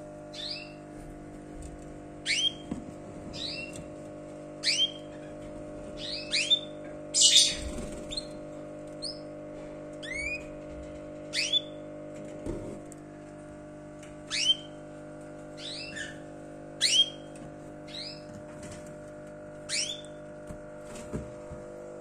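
Caged bird giving short, sharply falling chirps, often in pairs, every second or two, over a steady low hum. There is a brief rustling burst about seven seconds in.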